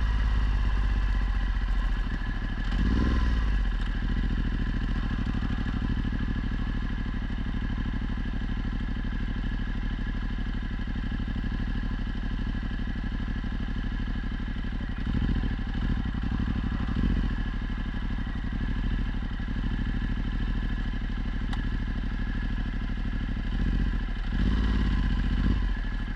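Ducati Multistrada 1260's V-twin running through a Termignoni exhaust, mostly steady, with a few short swells in engine sound about three seconds in, around the middle and near the end.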